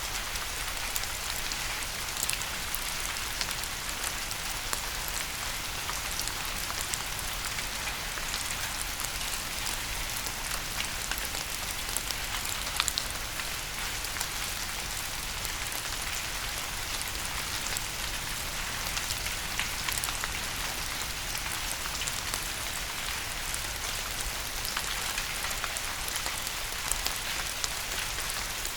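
Steady rain: a constant hiss with many small, sharp drop impacts scattered through it.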